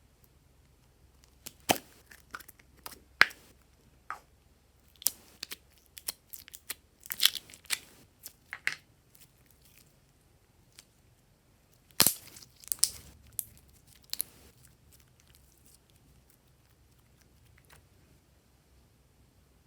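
Slime being pressed and stretched by hand, making irregular sharp, sticky pops and crackles. They pause for a couple of seconds midway and die away for the last few seconds.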